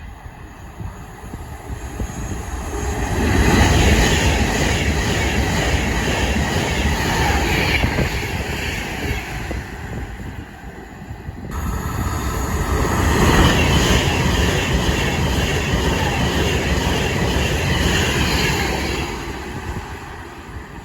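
A train running past on the rails, a rumbling rush of wheels on track that swells and fades over several seconds. This happens twice, the second pass starting soon after the first dies away.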